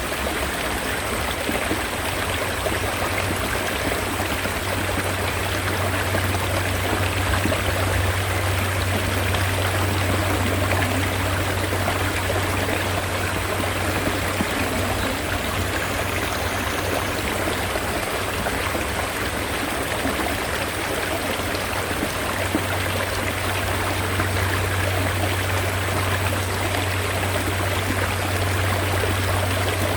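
Mountain stream water flowing, a steady rush with a constant low rumble underneath.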